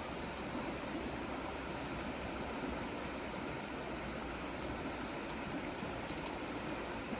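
Steady rushing outdoor background noise, with a few faint small ticks about five to six seconds in.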